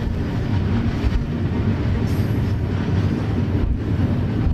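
Long iron-ore freight train running, a steady noise heavy in the low end with a few faint knocks, heard from on top of a loaded ore wagon.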